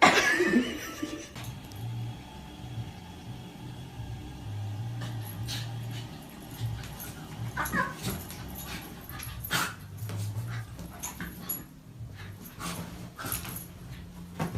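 A dog whimpering and yipping, opening with a loud cry that falls in pitch, followed by scattered short whines and a low rumble.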